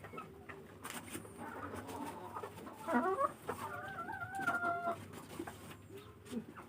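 Domestic chickens clucking, with one longer drawn-out call about four seconds in.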